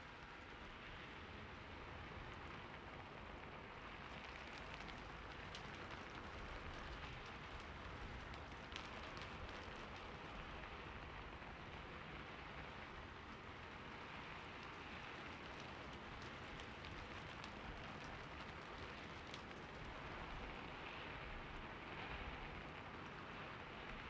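Steady rain falling on a roof, an even hiss with a few sharper drop taps here and there.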